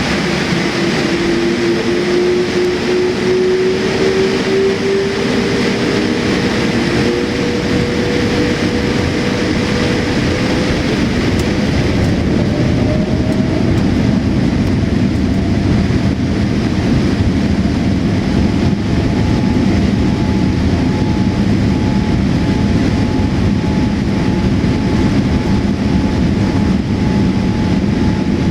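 Cabin noise of an ANA Boeing 787-8 airliner: a steady rumble and hiss of its engines and airflow. A whine rises slowly over the first twelve seconds or so, then settles into higher steady tones.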